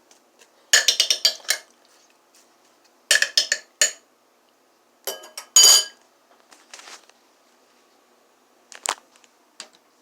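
Metal utensil and dish clinking: three quick bursts of ringing taps, then two single clinks near the end.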